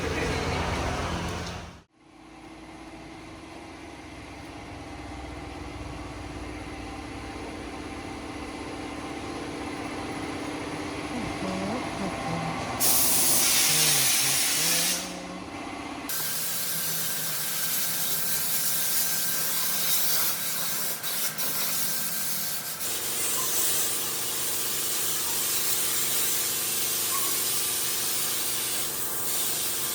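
High-pressure washer spraying water onto a car, a steady hiss with a low pump hum under it and a loud, louder burst of spray for about two seconds near the middle. The sound changes abruptly a few times where shots are joined.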